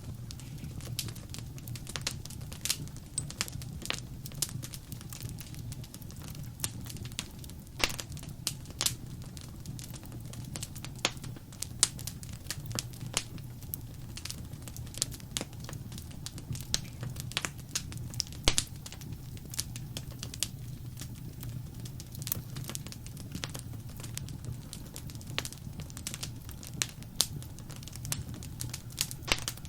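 Wood fire crackling in a fireplace: a steady low rumble of the flames with irregular sharp pops and snaps, a few louder ones scattered through.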